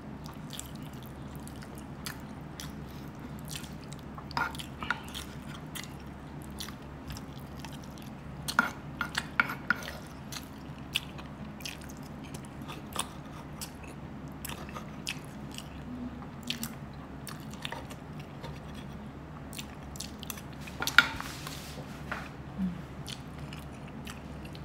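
Close-up eating sounds: a man chewing a mouthful of beef stew and rice with soft wet smacks and many small mouth clicks, with a few louder clicks now and then. A steady low hum runs underneath.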